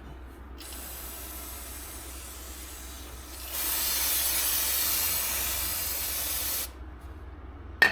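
Aerosol can of brake cleaner spraying in one long hiss: lighter at first, then stronger for about three more seconds, and cut off sharply. A single sharp click comes just before the end.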